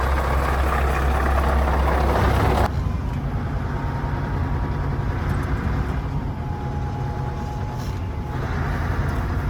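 Scania truck running at highway speed: steady engine and road noise with a strong low rumble. About two and a half seconds in the noise drops suddenly to a quieter, steady running with a faint high whine.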